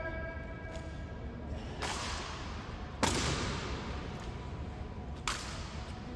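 Rifle drill: sharp slaps and clacks as ceremonial rifles are caught and struck by hand, four in all, the loudest about three seconds in.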